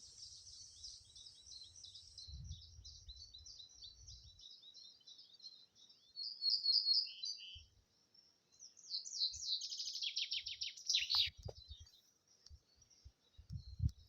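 Small songbirds singing, a steady high twittering with louder song phrases about six seconds in and again from about nine to eleven seconds, the second a quick run of rapid notes. Faint low rumbles come and go underneath.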